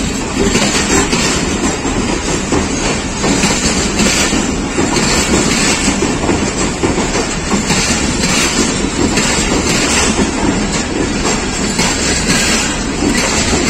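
Passenger coaches of a departing train rolling past at speed: a loud, steady rumble, with the wheels clattering over the rail joints again and again.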